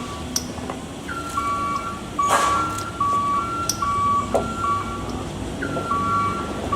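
Electronic beeper melody: pure tones stepping back and forth between two close pitches in a repeating pattern, over a low engine and road rumble, with a few sharp clicks.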